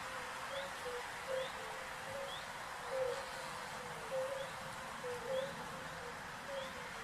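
Bird calls: short low hooting notes repeating at irregular intervals, with faint high rising chirps about once a second over a steady hiss.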